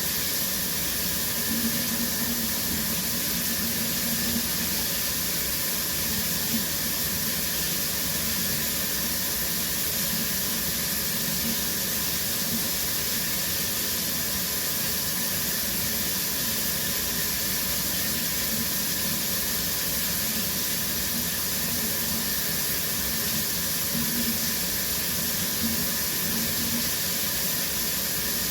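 Shower running steadily, its spray falling onto the shower floor in an even hiss.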